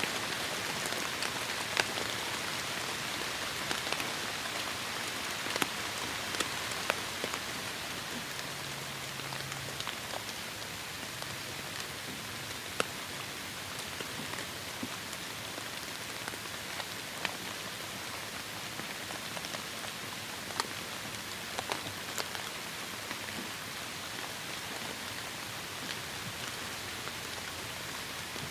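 Heavy rain falling steadily, a dense hiss with many sharp individual drops striking close by.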